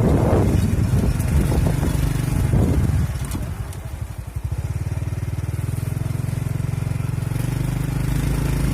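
Wind buffeting the microphone, then from about four seconds in a small engine running steadily with an even low pulse.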